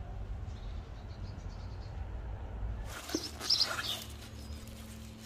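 Small birds chirping in short bursts about three seconds in, after a low, steady rumble that fills the first part.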